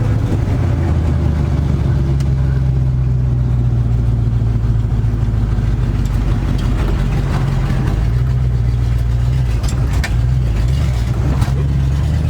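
1973 Dodge D100's 318 V8 running steadily as the truck pulls along in first gear, the engine note holding even throughout.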